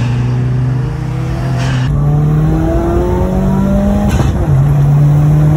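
Subaru WRX's turbocharged flat-four under load. The engine note holds steady, then climbs for about two seconds and drops sharply about four seconds in at a gear change, then holds steady again. Short turbo hisses come at the start, near two seconds and at the shift.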